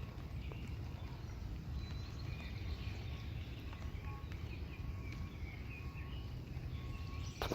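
Outdoor ambience: scattered short bird chirps over a steady low rumble, with a sharp click near the end.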